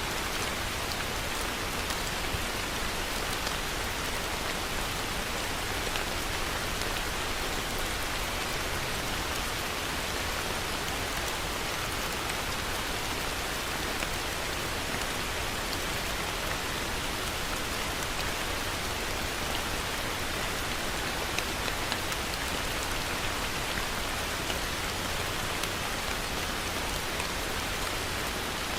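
Heavy rain falling steadily, an even hiss of rain with scattered drops ticking on surfaces.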